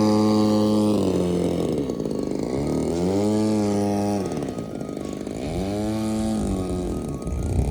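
Small two-stroke gas engine of a 20cc RC airplane running, its pitch rising and falling several times as the engine speed or the plane's passing changes.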